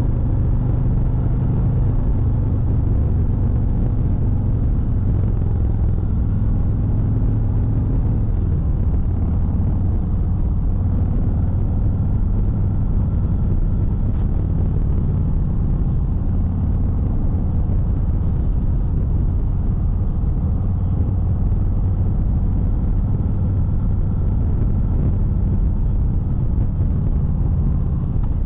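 Harley-Davidson Fat Bob 114's Milwaukee-Eight 114 V-twin running under way as the motorcycle is ridden. The engine note drops about eight seconds in and climbs again near the end.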